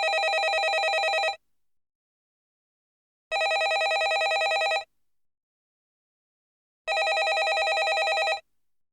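Landline telephone bell ringing: three rings, each a rapid trill about a second and a half long, with about two seconds of silence between them.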